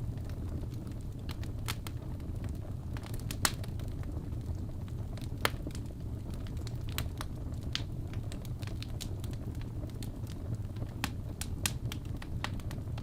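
Wood fire crackling in a fireplace: a steady low rumble of flame with irregular sharp pops and snaps, two louder pops in the first half.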